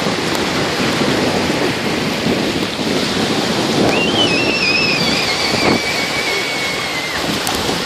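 Ocean waves breaking and washing ashore, with wind on the microphone. About four seconds in, a thin high tone rises in, wavers slightly and holds for about three seconds.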